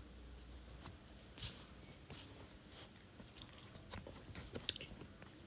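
Someone chewing close to the microphone: faint, scattered small crunches and mouth clicks, with slightly louder ones about one and a half seconds and near five seconds in.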